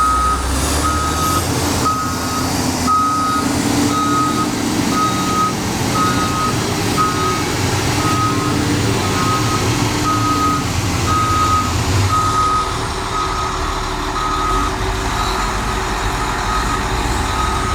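Motor grader's back-up alarm beeping steadily, about two short beeps a second at one pitch, over the running of its Cummins six-cylinder diesel engine: the machine is in reverse.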